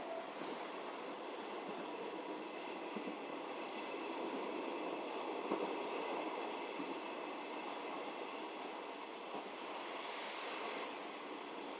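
JR Hokkaido 711 series electric multiple unit running, heard from inside the passenger car: a steady rumble of wheels on rail, with a couple of faint knocks.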